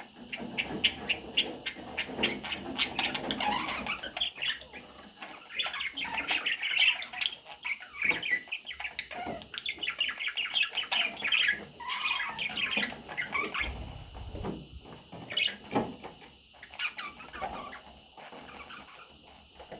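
Budgerigars chattering with rapid, busy chirps, thinning out to sparser calls over the last few seconds.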